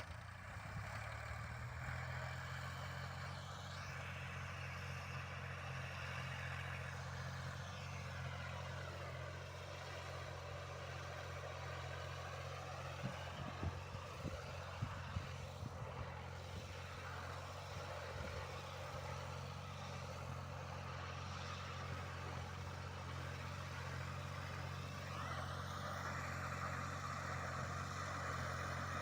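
Heavy diesel machinery engine running steadily, its pitch rising and falling a few times as the revs change. A few short knocks come about halfway through.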